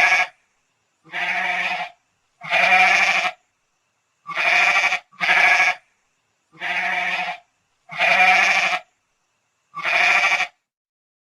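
Goat bleating: about eight separate trembling bleats, each under a second long, with short pauses between them.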